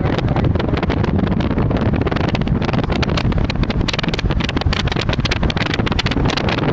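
Storm wind and heavy rain pelting a vehicle: a dense, rapid patter of hits over a steady rushing noise, with wind buffeting the microphone.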